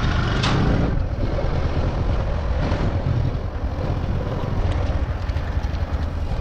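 Motorcycle engine running with wind buffeting the microphone while riding, a steady rumble.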